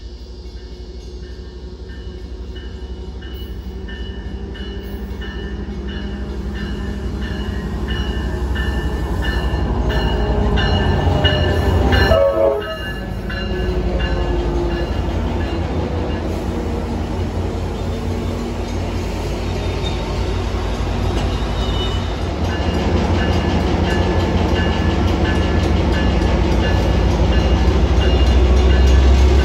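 Metra commuter train's diesel locomotive rumbling in closer and louder as it pulls into the station and draws alongside. Grade-crossing warning bells ding in a steady repeating rhythm throughout. About midway there is a brief, loud tone, the loudest moment, as the locomotive comes abreast.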